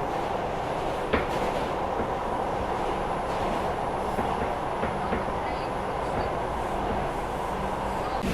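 R142 subway car running steadily at speed, heard from inside the car: a continuous rumble of wheels on rail with occasional clicks, one sharp click about a second in.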